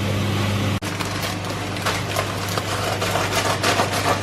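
Chicken breast sizzling and crackling in a frying pan over a steady low hum. The sound breaks off for an instant about a second in.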